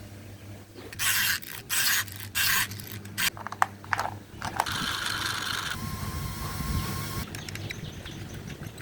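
Old plastic toys being handled and rummaged through: three scraping bursts, then a quick run of clicks and rattles, then a few seconds of steady whirring that fades near the end.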